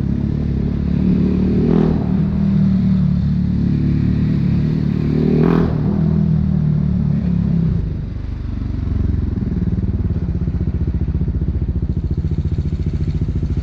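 BMW G 310 R's single-cylinder engine through an Akrapovic racing exhaust, running at steady revs, with two short sharp clicks a few seconds apart. About eight seconds in the revs drop and it settles to a low, rapid putter of single firing pulses, like an idle.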